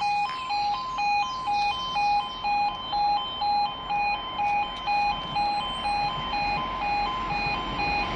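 Level crossing audible warning alarm sounding in steady pulses of tone, about two a second, signalling that a train is approaching.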